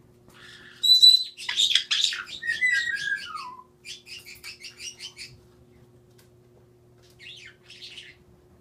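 Pet corella (parrot) calling: a sharp screech about a second in, then a burst of rapid chattering with a falling whistle, a run of quick repeated chirps, and a few softer calls near the end.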